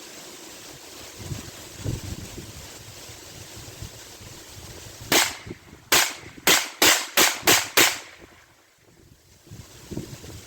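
Seven sharp bangs in quick succession, coming closer together toward the end, over a light background of wind.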